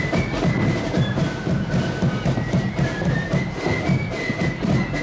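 Marching band playing: a high, shrill flute melody over a steady, driving beat of marching drums.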